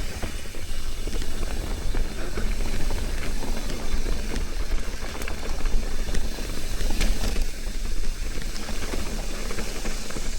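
Downhill mountain bike rolling down a dirt trail: wind rushing over the microphone, tyre noise on dirt and the bike rattling over the bumps, with a few sharp clicks.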